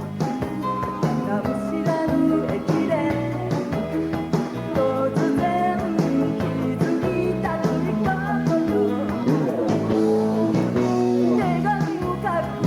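Live pop-rock band playing with a woman singing lead, over electric guitar and drums keeping a steady beat.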